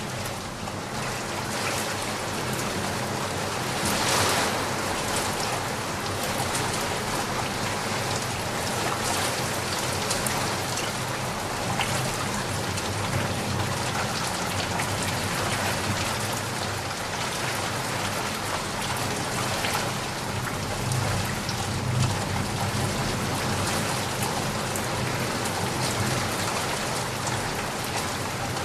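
Steady rain falling and pattering on surfaces, with individual drops ticking through the hiss; it swells briefly about four seconds in.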